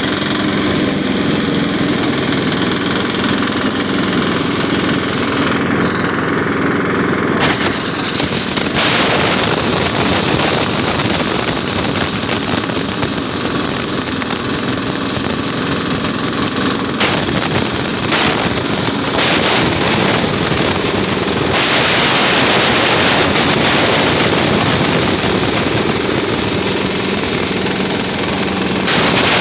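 Diesel engine running a chaff cutter, a steady rapid engine knock with machine noise over it. The sound grows brighter about a quarter of the way in and louder again past two-thirds.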